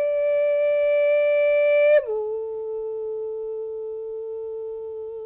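Woman's classical singing voice, unaccompanied, in a wordless contemporary classical aria: one long, steady note, then a step down about two seconds in to a lower note held until it stops near the end.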